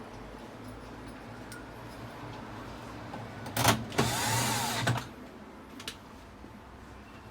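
A small electric motor whirs for about a second, its pitch rising and then falling, after a short burst just before it, over a low steady hum.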